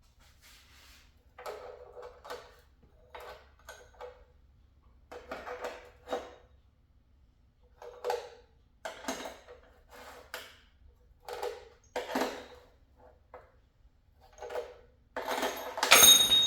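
Rocker arms and pushrods from a Ford 3.0L V6 being lifted out and set down one by one: about fifteen short metallic clinks and knocks. Near the end comes a loud ringing clang, like a dropped part.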